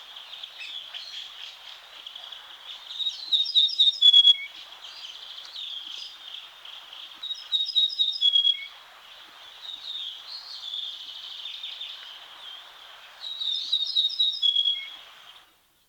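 Ortolan bunting singing three songs, each a short run of ringing notes on one pitch that ends in a lower, drawn-out note, over continuous high background chirping. The recording fades out near the end.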